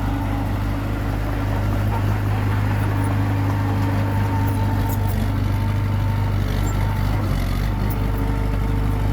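Komatsu D21P bulldozer's diesel engine running steadily, its pitch shifting slightly a little after seven seconds in.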